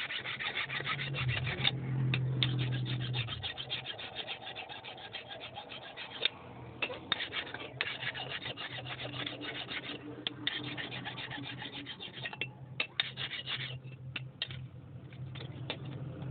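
Rapid scratching and rasping strokes of a hand tool on the steel of a forged axe head, in runs broken by short pauses, over a steady low hum.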